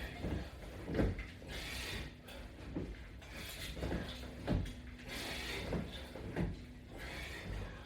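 Sit-up repetitions: a breathy exhale roughly every two seconds, with dull thuds and creaks from the bench and straps, over a faint steady hum.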